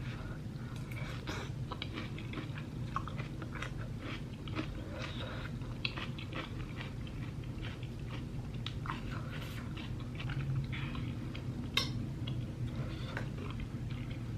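Close-up mouth sounds of someone chewing and biting tteokbokki (Korean rice cakes in sauce) with cheese: wet smacks and small irregular clicks, over a low steady hum.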